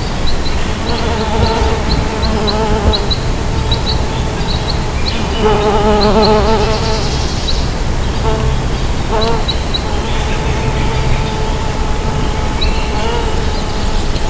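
Mason bees buzzing in flight, the hum wavering in pitch and swelling loudest as a bee passes close, about six and again about nine seconds in. Short high chirps repeat in quick runs in the background.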